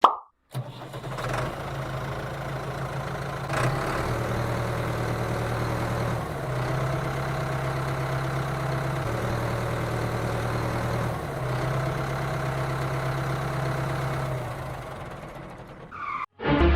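Tractor engine idling steadily, a low running hum that shifts slightly in pitch a few times and fades out near the end.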